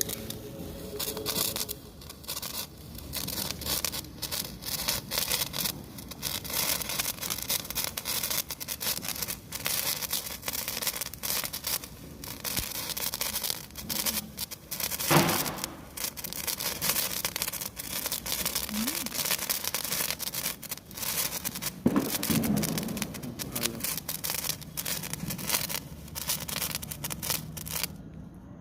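Crackling sparkler (fuljhadi) burning, giving off a dense, irregular stream of sharp crackling pops that goes on almost without a break.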